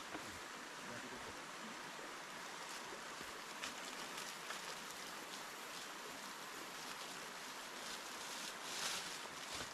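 Small river flowing, a steady rush of water, with a few faint ticks and a brief louder rustle about nine seconds in.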